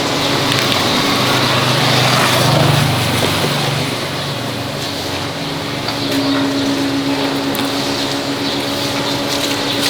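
A motor-driven machine running steadily with a low hum. It dips about five seconds in, and a steadier, higher hum takes over about a second later.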